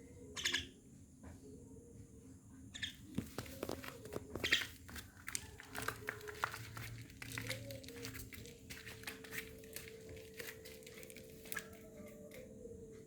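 Young Javan myna moving about close to the microphone: scattered clicks and rustling, with one short harsh sound about half a second in. A faint steady hum starts about halfway through.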